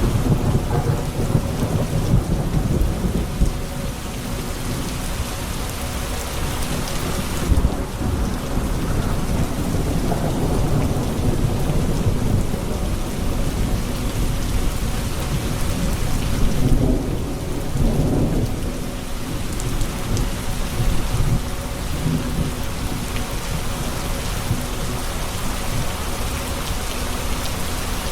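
Steady heavy rain with rolling thunder, the low rumble swelling several times: near the start, around ten seconds in, and loudest a little past halfway.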